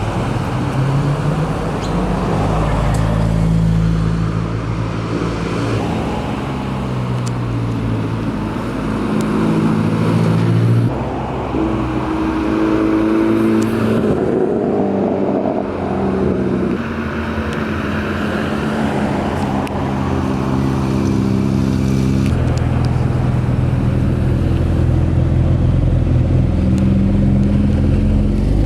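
A succession of car engines driving slowly past at low revs, the engine note rising and falling with the throttle. The engine sound changes abruptly a few times as one car gives way to the next.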